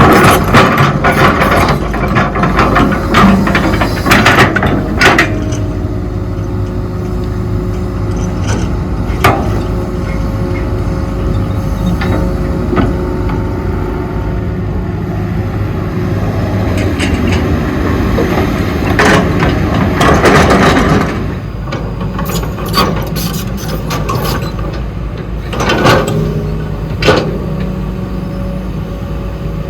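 Hydraulic excavator working: its diesel engine runs steadily under load, with level hydraulic tones that shift in pitch now and then. Frequent clanks and knocks from the bucket and digging are heard, thickest in the first few seconds and again about twenty seconds in.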